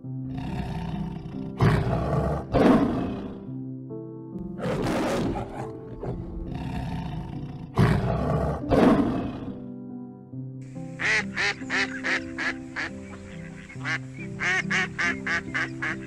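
Background music with animal calls. Several loud, harsh calls come in the first part. About ten seconds in, there is a switch to a flock of waterfowl giving many short, rapid quacking or honking calls.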